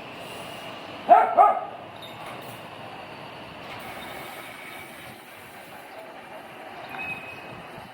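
A dog barks twice in quick succession, loud and short, about a second in, over a steady background hum.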